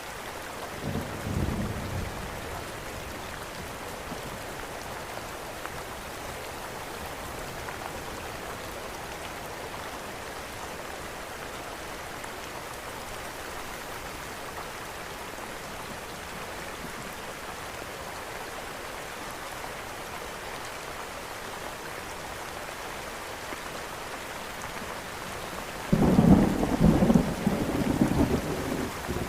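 Steady rain, with a brief low rumble of thunder about a second in and a louder, rolling thunder rumble near the end.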